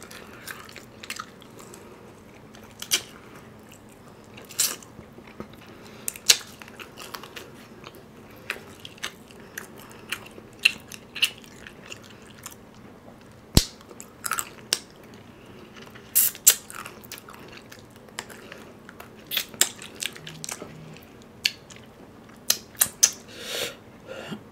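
Close-miked chewing and biting of crispy fried chicken, with irregular crunches and wet mouth clicks scattered throughout, a few louder ones in the second half.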